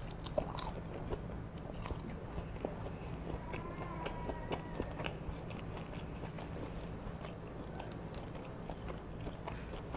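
Close-up eating sounds of a McDonald's Chicken McNugget: a bite right at the start, then chewing with many small crunches and wet mouth sounds.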